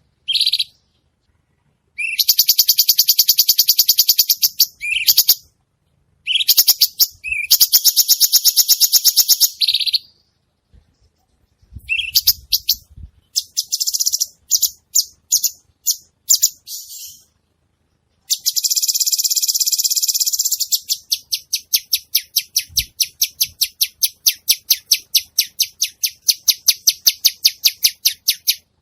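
A cucak cungkok singing: loud, high-pitched rattling trills of rapidly repeated notes lasting a few seconds each, broken by short pauses. In the last third it changes to a long series of separate sharp notes, about three a second.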